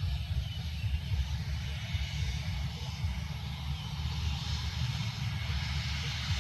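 Airliner's jet engines passing, a noisy rush that grows louder in the second half, over an uneven low rumble.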